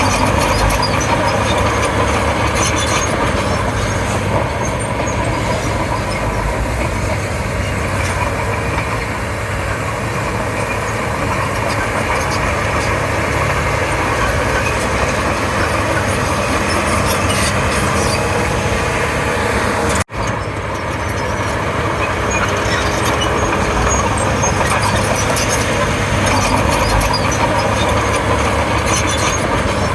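Komatsu D31P crawler bulldozer's diesel engine running steadily under working load, with a momentary cut about two-thirds of the way through.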